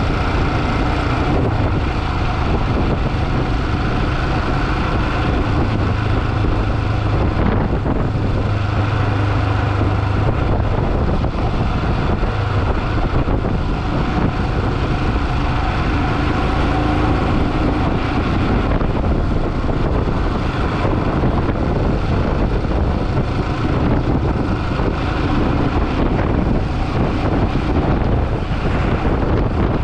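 Motorcycle engine running steadily on the move, with wind rushing over the microphone; the engine note shifts slightly now and then.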